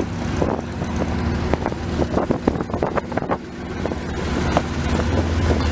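Car engine idling steadily with a low rumble, with scattered short clicks and knocks over it.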